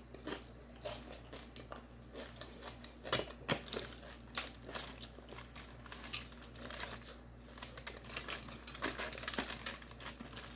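Close-miked eating: irregular crunching, smacking and crinkling clicks of food being chewed, with more of them after the first few seconds.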